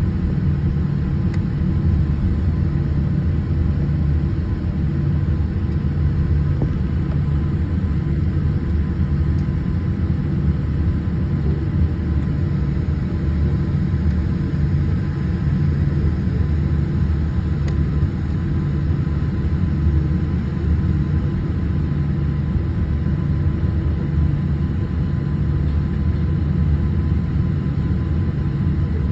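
Steady low rumble of Boeing 787 airliner cabin noise, with a faint steady hum above it and no change in level.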